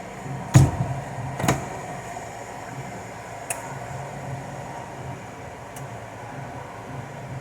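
A household appliance running with a steady low hum. Two sharp knocks come about half a second and a second and a half in, followed by a couple of faint clicks.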